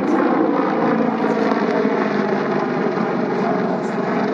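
Sikorsky CH-53K King Stallion heavy-lift helicopter, with three GE T408 turboshaft engines, flying a high-speed pass: loud, steady rotor and engine noise.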